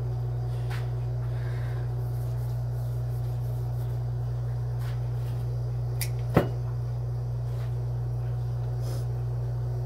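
A steady low hum, with a few faint clicks and one sharp click about six seconds in.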